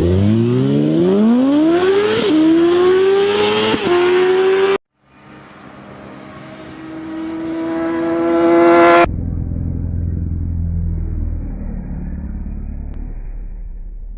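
Sport motorcycle engines in three edited clips. The first accelerates hard, its pitch rising with upshifts about two and four seconds in. After an abrupt cut, another passes with a steady high engine note that grows louder. A second cut brings in a low engine rumble.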